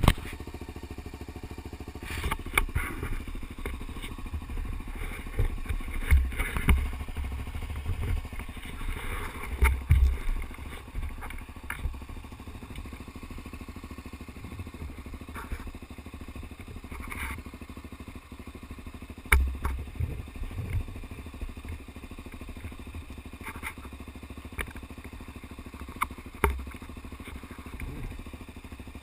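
Motocross motorcycle engines running on a dirt track, with several loud dull thumps scattered through.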